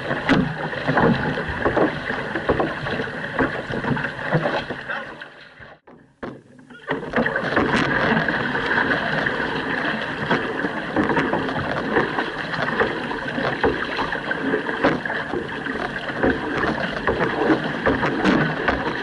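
Water rushing and splashing around a paddled outrigger canoe under way, with wind on the microphone. The sound cuts out almost completely for about a second around six seconds in, then resumes.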